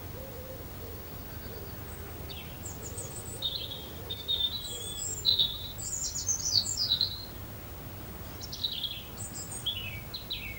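Small garden birds chirping: runs of short, high chirps and quick falling notes, busiest in the middle, with a few more near the end.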